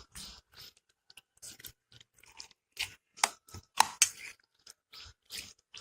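Raw chicken pieces being mixed into a thick marinade of cornflour, maida, curd and spices in a bowl: irregular wet squelching and sticky clicks, a few louder ones a little past the middle.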